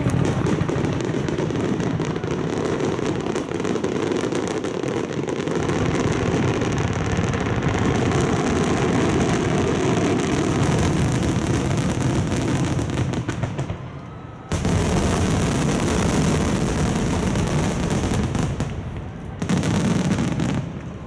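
Rapid-fire wide starmine fireworks finale: aerial shells bursting in a dense, continuous barrage of booms and crackles. It dips briefly about two-thirds of the way through, comes back suddenly at full strength, and dips once more near the end.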